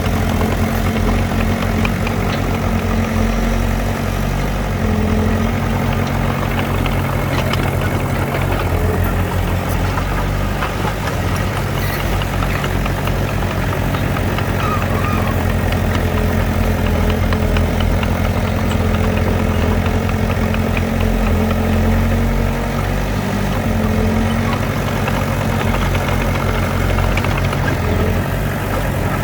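Heavy diesel engines of earthmoving machinery running steadily, their pitch shifting slightly a few times.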